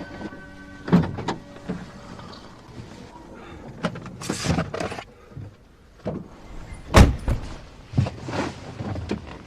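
Handling sounds in and around a car: knocks and rustling, then a car door thudding shut about seven seconds in.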